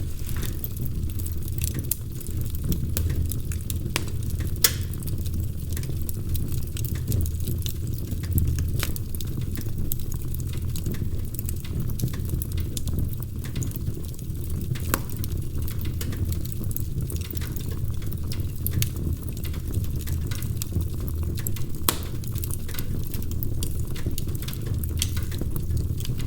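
Wood fire crackling: frequent small sharp pops and snaps over a steady low rumble, with a louder pop about five seconds in.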